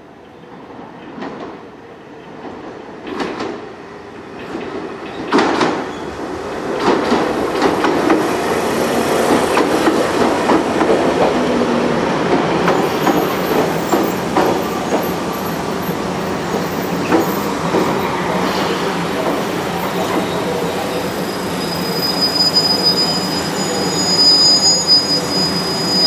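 Passenger train pulling into a station: a few wheel knocks over rail joints as it approaches, building into the steady rumble of the cars rolling past. A high, steady brake squeal comes in over the last few seconds as the train slows to a stop.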